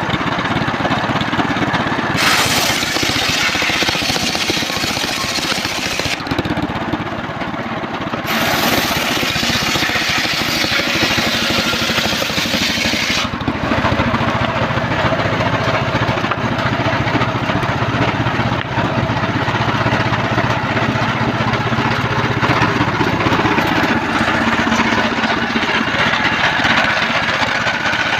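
Engine-driven homemade circular sawmill running loud and steady while sawing trembesi (rain tree) logs. A brighter, hissing cutting noise comes in for two stretches of a few seconds each. After that the machine runs on with a steady low hum.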